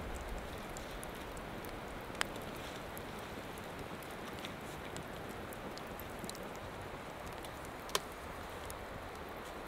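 Steady hiss and patter of light rain falling in the forest, with two sharp snaps, one about two seconds in and one near the end.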